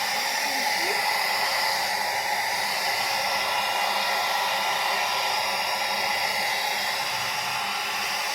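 Hand-held hair dryer running steadily, a continuous even rush of blown air with a faint steady motor whine.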